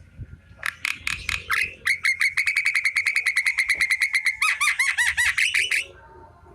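Javan myna (jalak kerbau) singing: a loud, fast rattling run of sharp repeated notes, about ten a second, that changes to bending, warbled notes near the end and cuts off suddenly about six seconds in.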